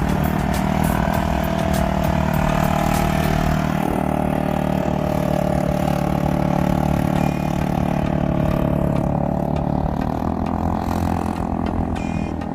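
An engine running steadily, a loud, even hum.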